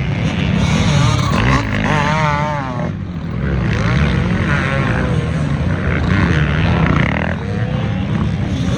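Off-road racing engines revving hard, their pitch wavering and rising and falling again and again.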